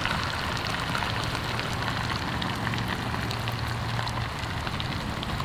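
Venison sizzling in a discada: a steady hiss full of small crackling pops.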